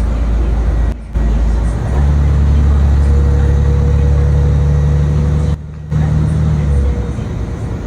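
Bus engine and cabin noise heard from inside a moving city bus: a steady low drone that grows stronger about two seconds in, as if under acceleration, and eases off near the end.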